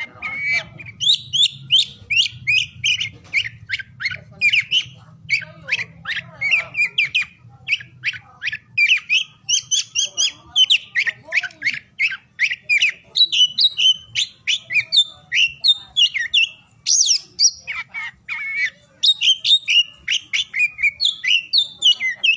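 Oriental magpie-robin (kacer) singing a fast, unbroken run of varied whistles, chirps and harsh squawky notes, with only brief pauses.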